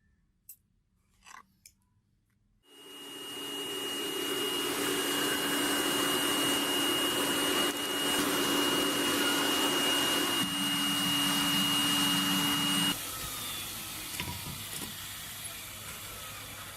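A few light clicks, then an electric power tool's motor starts, runs up to speed and holds a steady high whine. Its note changes about ten seconds in, and a few seconds later it drops sharply and winds down.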